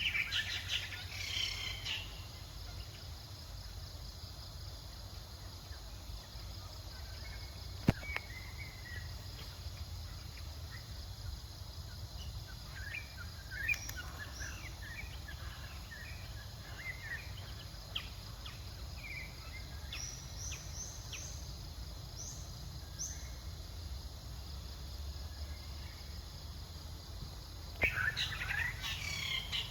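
Outdoor ambience: a steady low rumble with scattered bird chirps, bursts of high chirping calls at the start and near the end, and a few sharp clicks, the loudest about eight seconds in.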